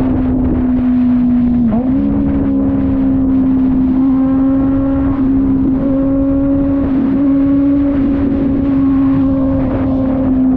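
Kove 450RR motorcycle's parallel-twin engine running at steady cruising revs. Its note dips briefly about two seconds in, as on a quick throttle change or gear shift, then holds steady again. Wind and road rush run underneath.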